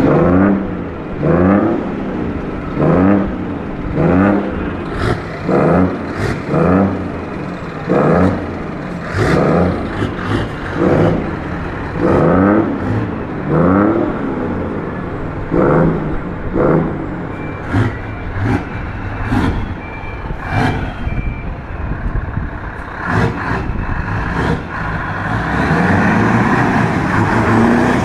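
Scania V8 truck engine blipped again and again, each rev rising sharply and dropping back, about once a second. Near the end it is held at a steadier, higher rev.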